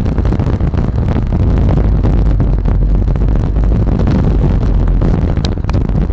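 Yamaha Lexi scooter running steadily while being ridden, mixed with heavy wind rumble on the microphone.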